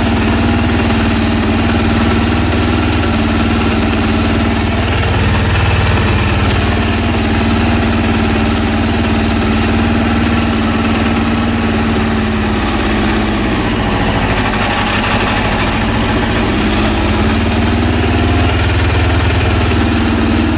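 Rebuilt Honda CB400 four-cylinder engine idling with a strange mechanical noise from its left side; the engine speed sags for a few seconds just past the middle and then picks back up. The owner puts the noise down to too low an idle speed, with the carburetors as the suspected cause.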